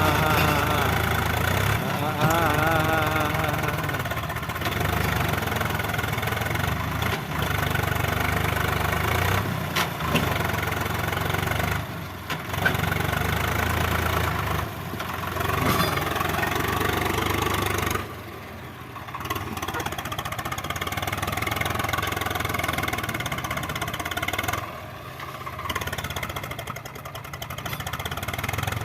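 Diesel tractor engine running steadily, with short dips in level twice in the second half. A voice is heard over it near the start.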